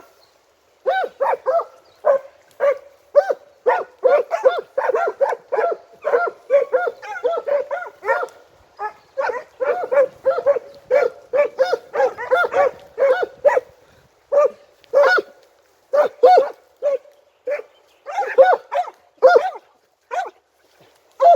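A pack of Italian scent hounds (segugi) giving tongue in a fast run of short, pitched barks while working a hare's scent trail, the baying of hounds closing in just before the hare is flushed. The barking pauses briefly twice.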